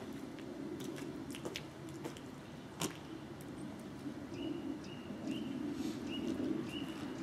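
Outdoor ambience: a steady low rumble with scattered light ticks, and from about four seconds in a bird calling a short high note over and over, about twice a second.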